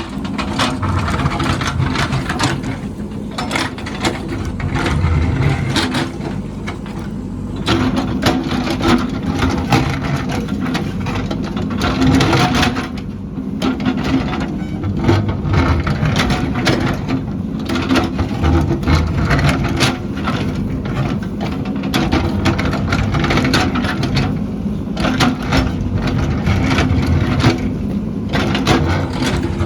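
Heavy earthmoving machine's engine running under load, with frequent knocks, clanks and crunching as the machine works.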